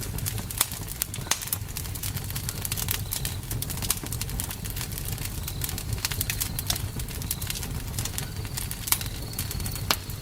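Campfire burning with a steady low rumble of flames and frequent irregular sharp crackles and pops from the burning wood.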